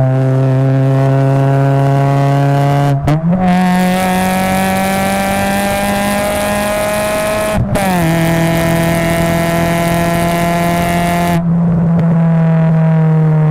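Honda Prelude SiR exhaust note through a Skunk2 resonated catback and Spoon resonated decat, heard close at the tailpipe while driving. The engine holds a steady drone, breaks off briefly about three seconds in and comes back at a higher pitch that climbs slowly, then drops to a lower steady note after another short break near eight seconds: gear changes under way. A rushing hiss rides over the middle stretch.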